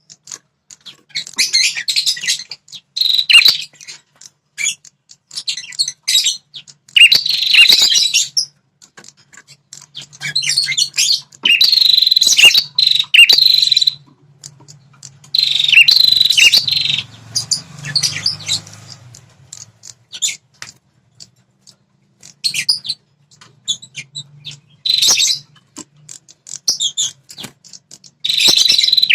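Prenjak kepala merah (red-headed prenjak, a small warbler) singing loud, fast bursts of high chattering notes in phrases of a second or two, with short pauses between them.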